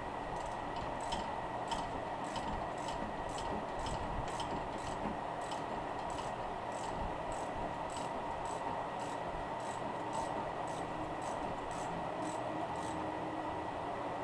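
Hand-tool work on a sway bar end-link nut: a ratchet and an open-end wrench rubbing and scraping as the nut is tightened. Under it runs a faint, very regular high ticking, about two to three ticks a second, and a steady hum.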